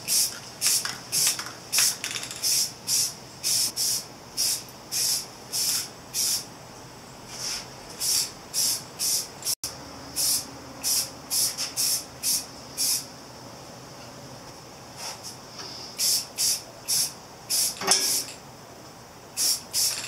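Aerosol spray can of glossy black engine enamel spraying in dozens of short bursts, each under half a second, with a few brief pauses between runs: a first coat going onto motorcycle exhaust pipes.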